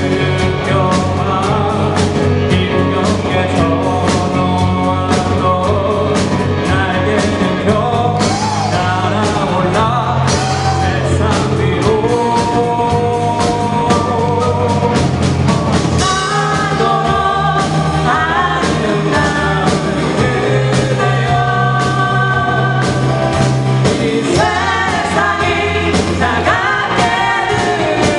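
Live amateur band playing a rock-style song: a singer over bass and drums.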